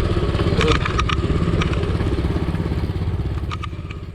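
Home-made mini bike's 220cc engine idling steadily with a fast low pulse and a few light clicks, fading away toward the end.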